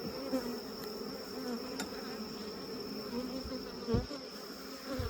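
Honeybee colony buzzing loudly and steadily around an opened hive, the bees worked up. The beekeeper puts this down to bridge comb between the two boxes that was probably ripped open. Two dull knocks sound near the end.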